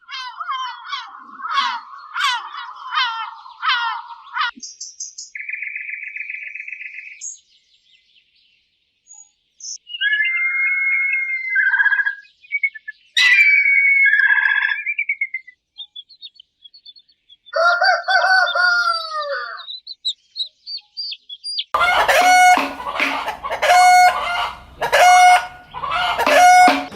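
Chickens and a rooster calling in a run of separate bursts: rapid clucks and squawks at first, longer crowing calls around the middle, and about five loud calls a second apart near the end.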